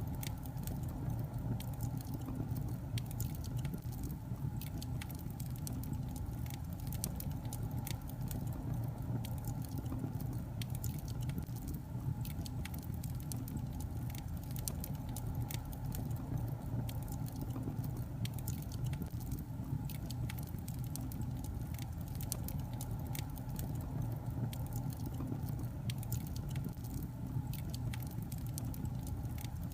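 Wood logs burning in a fireplace: a steady low rumble from the flames with frequent, irregular sharp crackles and pops.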